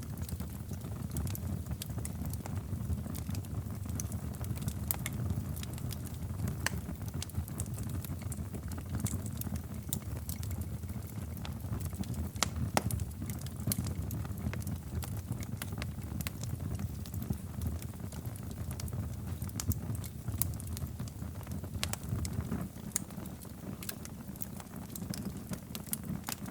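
Wood fire burning in a fireplace: a steady low roar of the flames with frequent irregular sharp crackles and pops.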